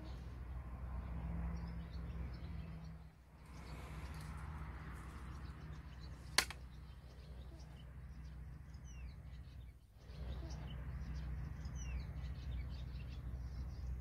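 Small songbirds chirping in short, quick calls over a steady low hum. A single sharp click about six seconds in.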